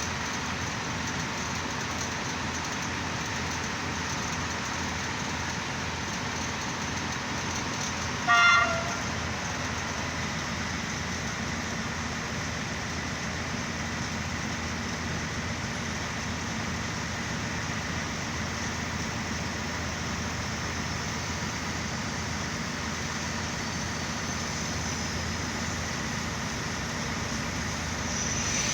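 Diesel railcar engine running steadily, with one short, loud horn toot about eight seconds in.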